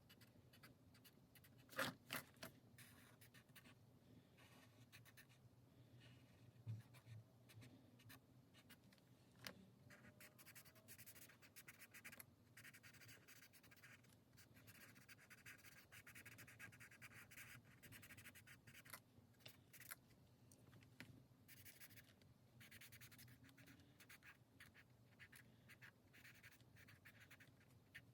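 Faint, continuous scratching of coloring strokes on a paper challenge sheet, with a light knock about two seconds in.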